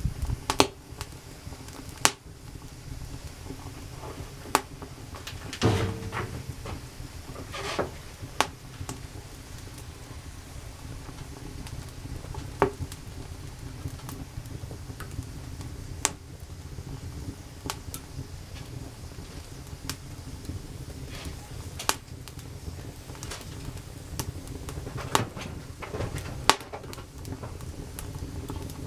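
Wood campfire crackling: irregular sharp pops and snaps, a few every several seconds, over a steady low background.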